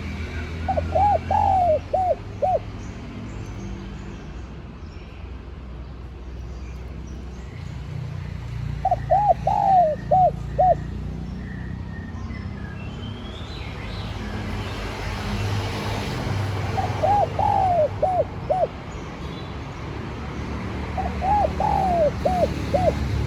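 Spotted dove cooing: four calls, each a phrase of several short notes lasting about two seconds, repeated roughly every six seconds over a low background rumble.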